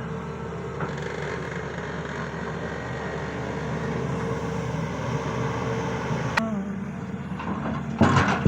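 Heavy diesel machinery engine running steadily, with a sharp click about six seconds in and a louder burst of noise near the end.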